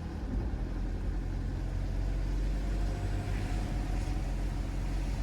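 Car running along a road, heard from inside the cabin: a steady low engine and road rumble.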